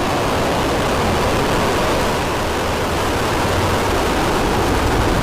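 Falcon 9 first stage's nine Merlin engines firing just after liftoff: a loud, steady rush of rocket exhaust noise.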